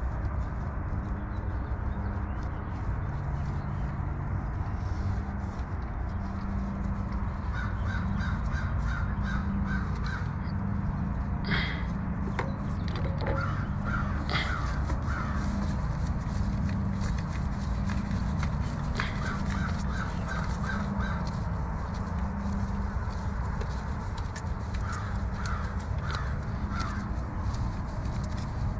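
A bird calling in runs of five or six quick short notes, repeated four times, over a steady low hum.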